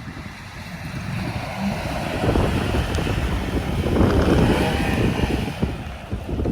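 Strong wind buffeting the microphone, swelling to a peak about four seconds in and then easing off.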